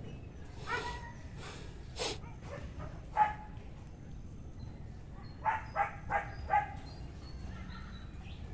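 A dog barking in the background, a few single barks and then a quick run of four about five and a half seconds in, over a steady low wind rumble on the microphone.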